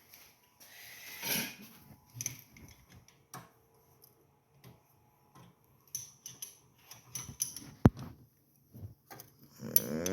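Scattered small metal clicks and taps of parts and tools being handled on a small engine, the sound of reattaching the carburetor linkage, with one sharp click about eight seconds in.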